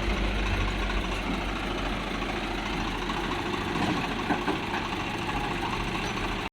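Diesel engine of a tractor or earthmover idling steadily.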